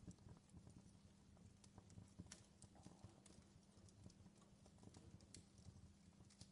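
Campfire crackling faintly, with many small irregular pops and snaps over a low steady rumble.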